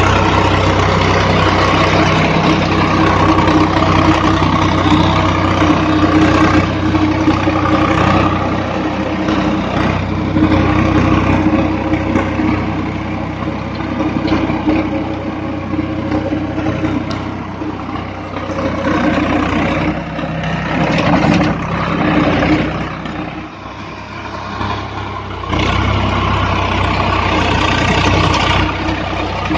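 Swaraj 744 FE tractor's diesel engine running steadily. It eases off somewhat in the middle and picks up again about three quarters of the way through.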